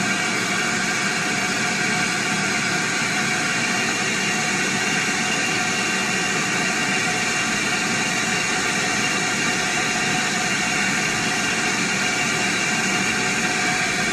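Vacuum cleaner running steadily: an even rushing hiss with several steady tones from the motor, at a constant level.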